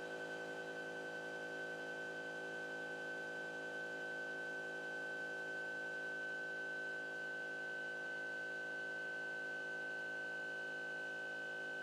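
Stepper motors of a CNC pen-drawing machine giving a steady electric whine and hum, with one clear high tone, as the machine moves the pen.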